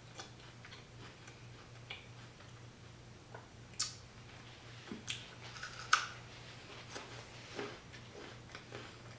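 Chewing and biting crunchy raw jicama fries: scattered crisp crunches and wet mouth sounds, the loudest about four and six seconds in. A faint steady low hum runs underneath.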